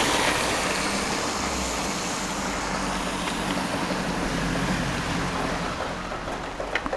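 A car driving past on a wet road: its tyres hiss on the wet surface and the sound slowly fades as it moves away, with a faint engine hum underneath. Rain falls throughout.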